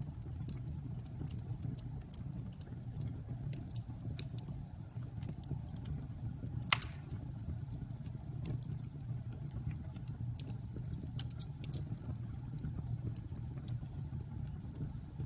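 Wood bonfire burning with a steady low rumble and scattered small crackles, and one sharp loud pop about seven seconds in.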